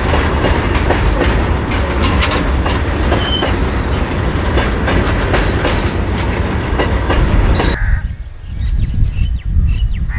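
A train running past close by, its wheels clattering over the rails with high squeals from the wheels. The clatter cuts off abruptly about eight seconds in, leaving a low rumble.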